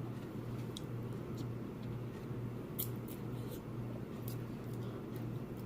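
Faint, scattered sharp clicks and crackles from handling and eating crab legs, over a steady low hum.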